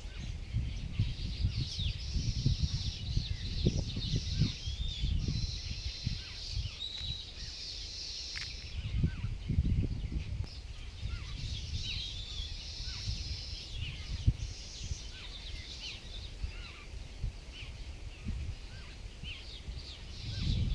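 Several small birds chirping and trilling in high, quick calls, busiest in patches a few seconds long, over a steady low rumble of background noise.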